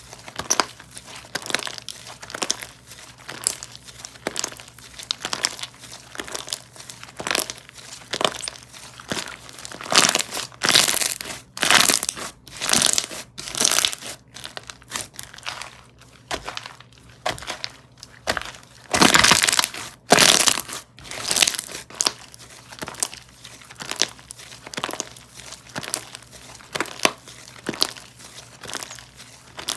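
Crunchy textured slime being squeezed, stretched and pressed by hand, giving a steady run of small crackles and pops, with louder, denser crackling about a third of the way in and again past the middle.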